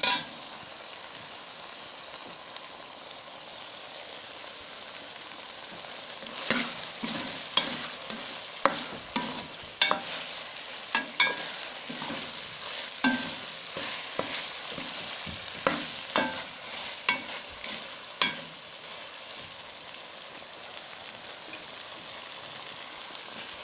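Mutton liver masala sizzling and frying in a metal pot as a steady hiss. From about six seconds in until about eighteen seconds in, a metal ladle stirs it and clinks against the pot at irregular intervals.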